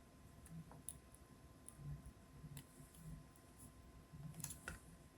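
Near silence, with faint scattered clicks of small robot parts and hardware being handled during assembly, a little busier near the end.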